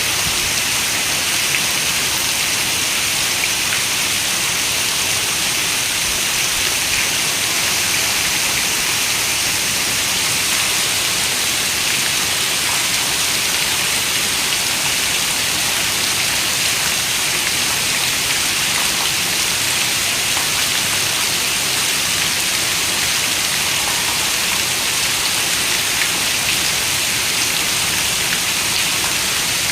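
Steady rain falling, an even hiss of drops with a few fine ticks of single drops and no thunder.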